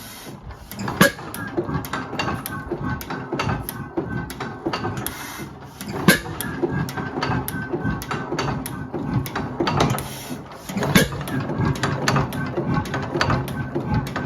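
Old Fairbanks Morse engine running with a busy mechanical clatter of clicks and knocks, and a heavier knock about every five seconds.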